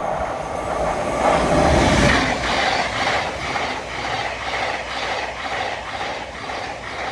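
Passenger train passing through at speed, its wheels clicking in a steady rhythm of about three beats a second; loudest about two seconds in.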